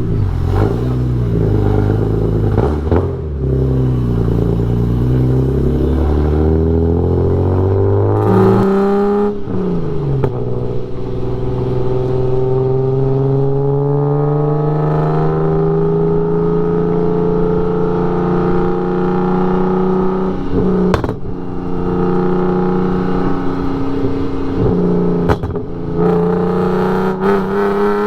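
Car engine accelerating hard under load, its pitch climbing steadily over long pulls, with short breaks and drops in pitch at upshifts about a third of the way in and again about three-quarters of the way in.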